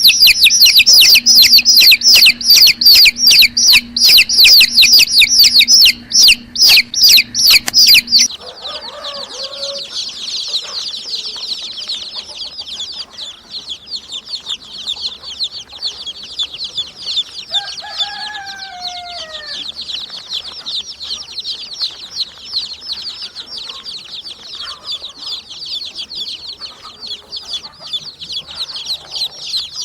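Chicks peeping: for the first eight seconds one loud, close run of rapid high-pitched peeps, then a softer, steady chorus of many chicks peeping together. About 18 seconds in, a single lower call slides downward over the chorus.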